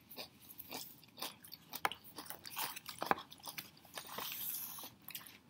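Mouth-close chewing of crunchy McDonald's Criss Cut fries: an irregular string of crisp crunches, several a second.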